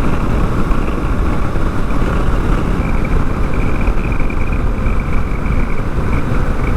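Honda Africa Twin's parallel-twin engine running steadily at highway cruising speed, about 57 mph, mixed with a heavy, even rush of wind and road noise.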